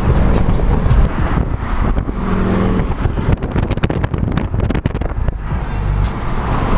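Honda Civic engine and exhaust running loud, with a quick string of sharp pops from the exhaust in the middle.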